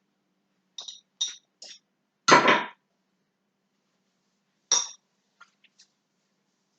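Kitchen dishes being handled on a counter: three light clinks about a second in, a louder clatter just after two seconds, another knock near five seconds, then a few faint ticks.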